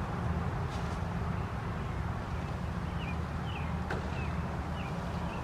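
Steady low rumble with a small bird chirping repeatedly over it, and a single sharp click about four seconds in.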